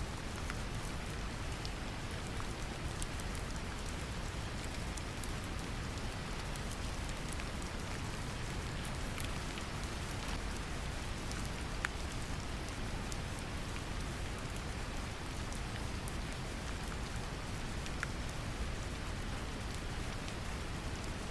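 Brown noise mixed with a steady gentle rain: a deep, even low rumble with soft scattered drop ticks above it.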